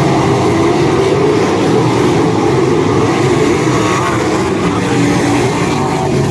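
Sprint car engines running at a race track, a loud steady din with faint engine pitches wavering up and down.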